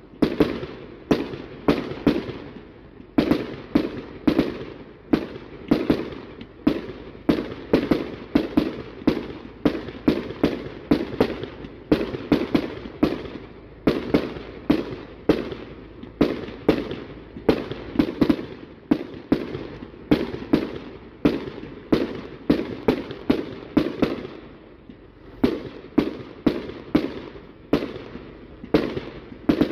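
Fireworks display: aerial shells launching and bursting in a rapid, unbroken string of bangs, about two or three a second, each trailing a short echo. The string eases briefly about three-quarters of the way through, then picks up again.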